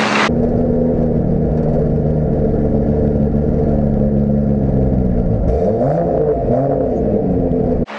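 Volvo 122 Amazon wagon race car's engine heard from inside its stripped cockpit, running with a steady drone. Near the end the pitch rises and falls twice.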